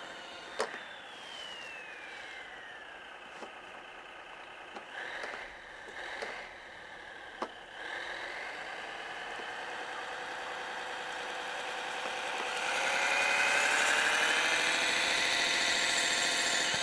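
Simulated diesel engine of an RC snowcat's Servonaut sound module, played through the model's small speaker: the revs fall away to idle early on, with a few sharp clicks, then climb again and get louder about twelve seconds in as the model works.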